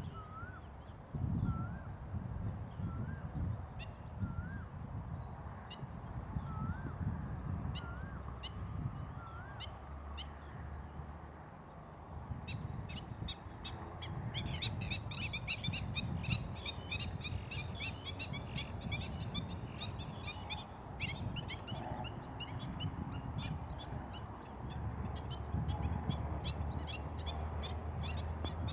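Red-wattled lapwing calls: sharp, high notes, a few scattered at first, then a fast dense run of repeated notes from about halfway through. A low rumble sits underneath.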